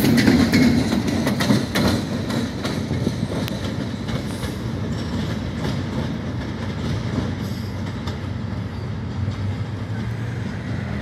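Freight train cars rolling past on the rails, wheels clicking over rail joints. The clicking is loudest in the first few seconds, then settles into a steadier, quieter rumble.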